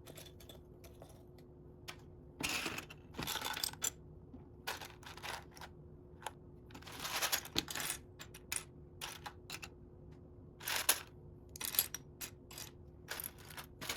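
Loose plastic Lego bricks clicking and clattering as they are rummaged through by hand, in irregular short bursts of rattling with many single clicks between them.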